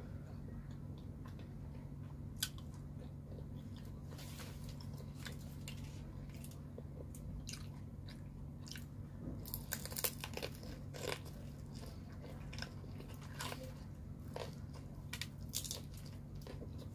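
Close-miked chewing and biting of pizza, with sharp crunches and mouth clicks that come thicker in the second half, over a steady low hum.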